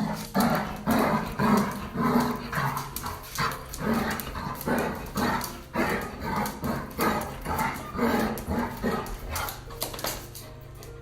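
A dog barking repeatedly, about two barks a second, in a steady run lasting about ten seconds.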